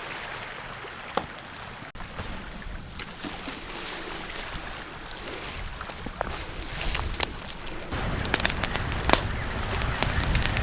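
Small wood fire of fine kindling crackling, with scattered sharp pops that come thicker and louder near the end. Low wind rumble on the microphone underneath.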